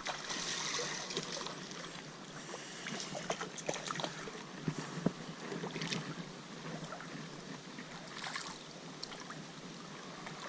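Creek water running, with scattered small clicks and knocks throughout.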